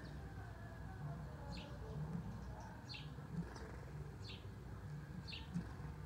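Small birds chirping: about four short, high chirps spaced a second or so apart, over a faint low steady hum.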